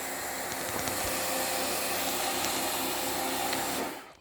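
Leaf blower running steadily, a rushing air noise with a faint motor hum, as the platform is cleaned; it cuts off suddenly near the end.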